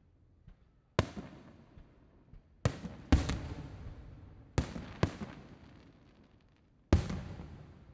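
Aerial fireworks shells bursting: about seven sharp booms, each followed by a long rolling echo, some coming in quick pairs about three and five seconds in.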